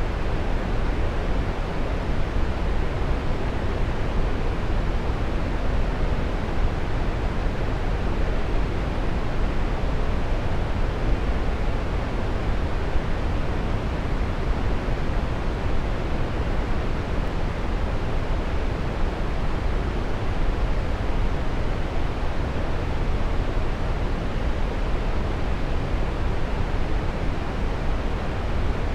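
Waterfall: a steady, unbroken rush of falling water, deep and full in the low end.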